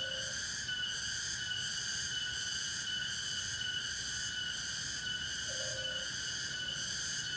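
A steady chorus of forest insects, shrill held tones at several pitches with a faint pulse a little faster than once a second. A short low call sounds once about five and a half seconds in.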